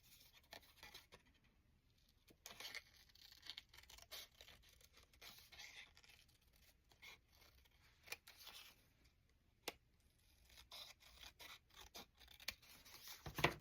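Faint handling of paper pieces: light rustling and scraping with scattered small clicks and taps, one sharper click about ten seconds in.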